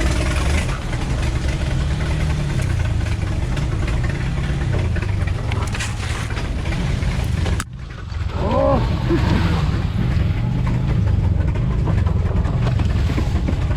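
Jeep CJ7's engine running at low speed, with an abrupt break a little past halfway.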